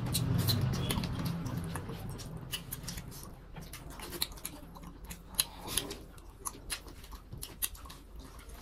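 Close-miked eating sounds of people eating rice and pork by hand: wet chewing, lip smacks and soft scattered clicks, irregular and moderately quiet. A low hummed murmur runs through the first two seconds.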